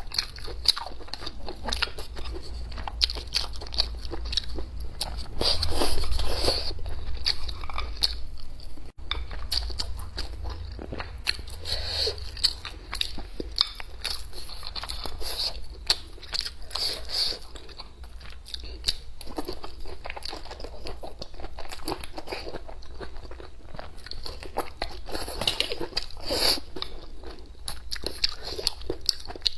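A person chewing and biting food close to the microphone, with a steady run of quick crunches and wet mouth clicks and a few louder bouts of crunching.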